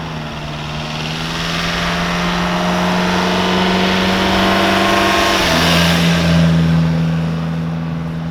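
Car engine and exhaust running at a steady speed, its pitch creeping slightly higher and then dropping back a little about five and a half seconds in.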